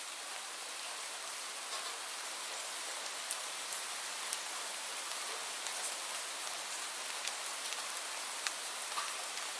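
Steady rain falling: an even hiss with scattered sharp drip ticks on a surface.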